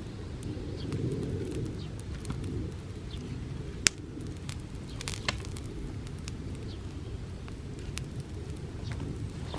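Bonfire of dry summer grass burning with a low steady rush of flame and scattered sharp crackles and pops. The loudest pop comes about four seconds in.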